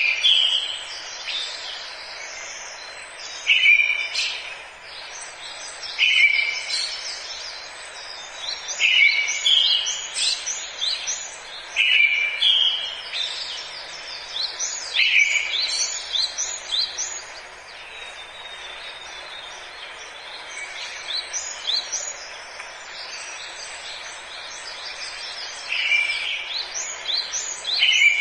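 Forest birdsong: several birds singing, one repeating a short phrase every few seconds with a pause in the middle, among many quick high chirps, over a steady hiss.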